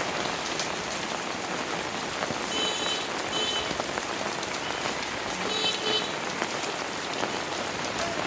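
Steady rain falling, with many small drop ticks. Twice, about three and five and a half seconds in, a short high-pitched ringing sound cuts through.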